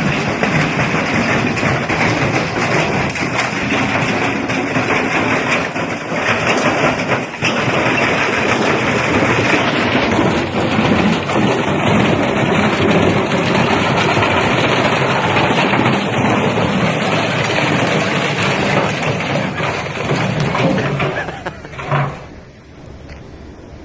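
Washing machine on a fast spin with a big stone inside, banging and rattling violently in a dense, continuous clatter as it wrecks itself. The racket dies away sharply about 22 seconds in.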